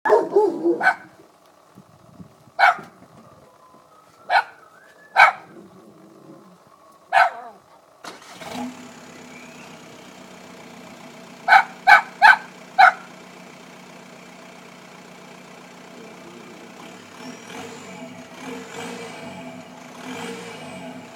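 A dog barks several times, then about eight seconds in a car engine with an open exhaust (catalytic converter gutted, silencer emptied) starts and settles into a steady idle. The dog barks four times in quick succession over the running engine.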